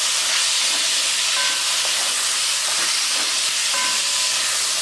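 Chopped tomatoes sizzling with fried onions and spices in hot oil in a metal kadai, giving a steady hiss while a spatula stirs them through.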